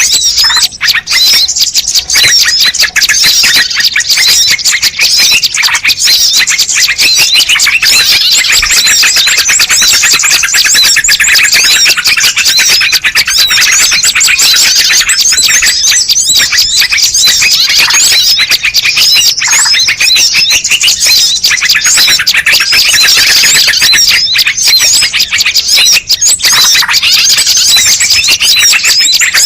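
Lure recording of many small birds chirping and twittering at once, loud and without pause, the rapid high calls overlapping densely.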